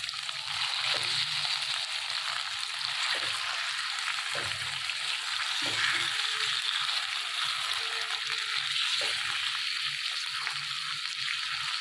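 Raw chicken pieces sizzling steadily in hot oil in a karahi, turned now and then with a silicone spatula that gives a few soft knocks.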